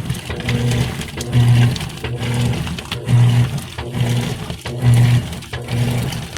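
GE Spacemaker top-load washer agitating in its wash phase: the drive motor hums in short pulses about once a second as the agitator swings back and forth, with water sloshing.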